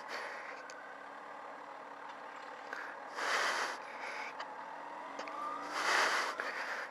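Yamaha FZ6's 600 cc inline-four engine running at low speed, its pitch rising a little past halfway as the bike speeds up. Two brief rushes of noise come in, about three seconds in and again near the end.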